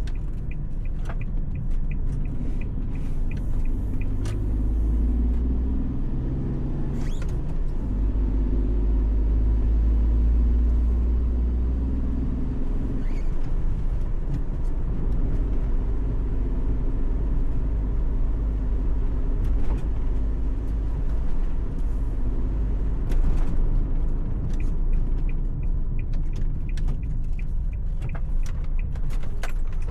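Suzuki Every kei van driving, heard from inside the cabin: a steady low road and engine rumble, with the engine note shifting up and down as it speeds up and eases off.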